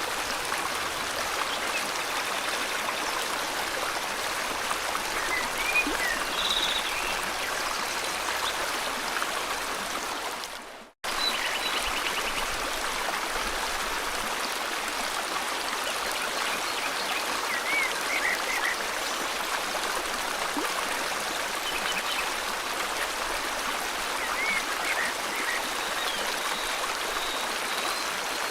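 River water flowing steadily, with a few short bird chirps scattered over it. The sound cuts out for an instant about a third of the way through.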